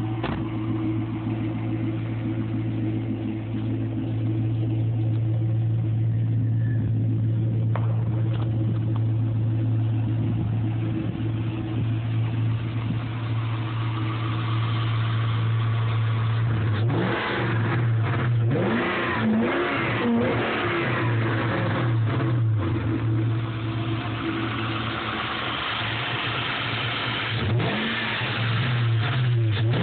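1997 Ford Mustang SVT Cobra's 4.6-litre DOHC V8 idling steadily through a Bassani catted X-pipe and Flowmaster mufflers. It is revved in a series of quick blips a little past halfway, settles back to idle, and is blipped again near the end.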